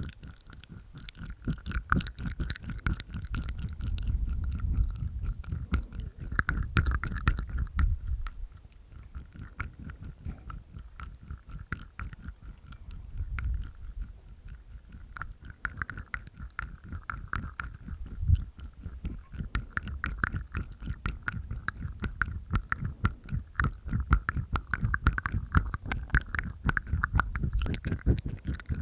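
Close-miked ASMR mouth sounds from inside the mouth: many rapid wet tongue clicks and teeth sounds, with stretches of low rumbling.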